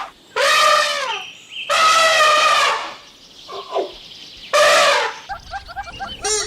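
Three drawn-out animal calls, each about a second long with a bending pitch. A quick, evenly repeating pitched chatter starts near the end.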